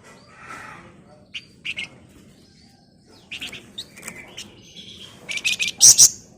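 A songbird kept in Indonesia as a 'flamboyan' singing in quick chirps and short rattling chatters. The loudest burst of sharp notes comes near the end.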